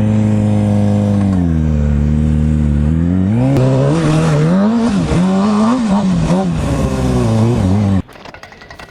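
Kawasaki ZX-6R sportbike's inline-four engine through a Two Brothers carbon-fibre full exhaust, ridden at speed. The revs hold steady, drop about a second and a half in, then rise and fall again and again as the throttle is worked. The engine sound cuts off suddenly near the end.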